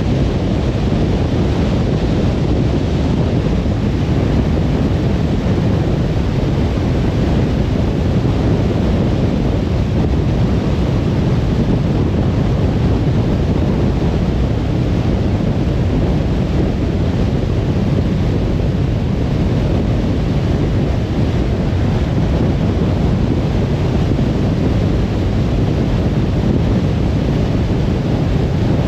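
Steady road and tyre noise of a car cruising on a motorway, a constant low rumble with no changes.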